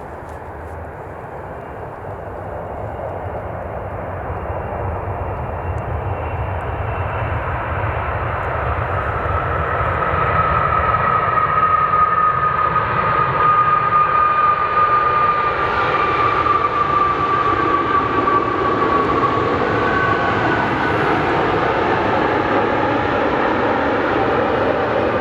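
Jet airliner's engines passing close by: the rushing noise builds over about ten seconds and then stays loud, with a high whine that slowly falls in pitch.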